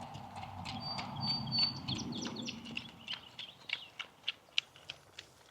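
Small birds chirping, with short repeated chip notes and a few high whistled notes about a second in. A low rustling sound runs under it for the first couple of seconds, then fades.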